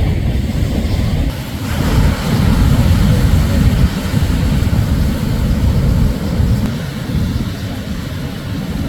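Shorebreak surf: a wave breaks about two seconds in with a deep rush of water that carries on and eases near the end.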